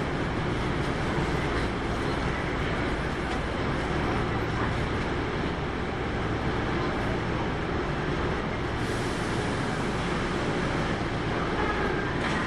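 Kintetsu 8810 series electric train heard from inside the car while running, a steady rumble of wheels on rail and running gear that holds an even level throughout.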